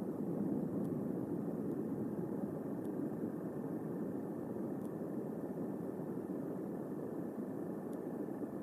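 Steady wash of thunderstorm wind and rain on the nest-cam microphone: an even, dull noise with no thunderclap.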